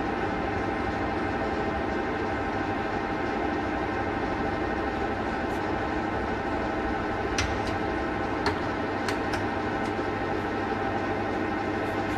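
Universal lathe running steadily, a constant machine hum with several steady tones, with a handful of sharp clicks a little past the middle.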